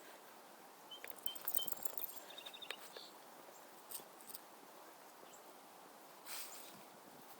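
Faint outdoor ambience with scattered light clicks and rustles, and a few short high-pitched chirps between one and three seconds in.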